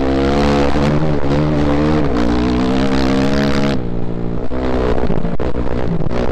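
Off-road motorcycle engine running hard under load, its pitch wavering as the throttle works over rough dirt track. About four seconds in it eases off and the sound turns choppier, with knocks and rattles.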